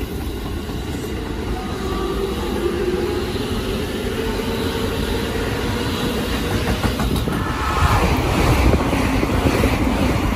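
Red Keikyu electric train pulling out along the platform, its running rumble carrying a faintly rising motor whine. About eight seconds in, a Keisei Skyliner AE-series express passes close at speed, a louder rush of wheel and air noise.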